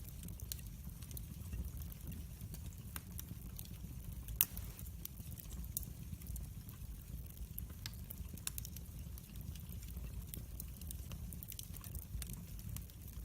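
Log fire in a fireplace crackling: scattered sharp snaps and pops over a low steady rumble, with one louder pop about four seconds in.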